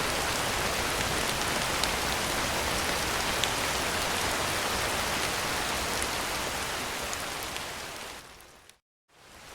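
Heavy rain on a tin roof: a steady hiss with occasional sharp drop ticks. Near the end it fades out to a moment of silence and fades back in, the way a looped rain track restarts.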